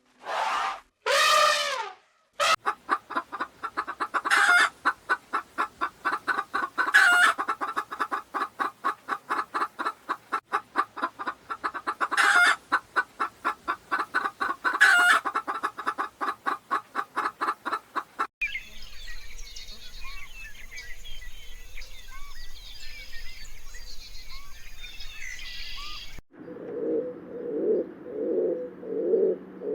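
Farm fowl calls in a run of separate clips. After a few short calls at the start comes a long stretch of fast, even chicken clucking with an occasional louder squawk. Then there are several seconds of busy high chirping, and near the end a low, repeated cooing.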